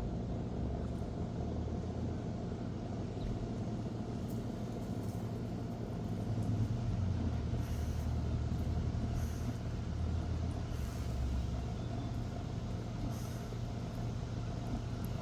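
Steady low engine rumble of a motor vehicle, swelling slightly about halfway through.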